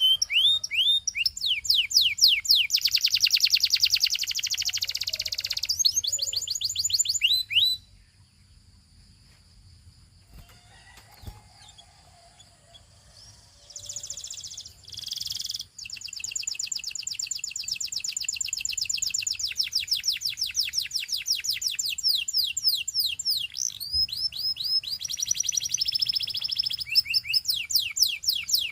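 Gloster canary singing fast trills of repeated down-slurred notes, breaking off for several seconds partway through with only a short burst before the song resumes.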